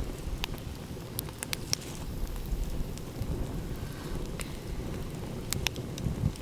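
Wood fire crackling, with sharp pops scattered irregularly through, over a continuous low rumble of ocean waves and wind.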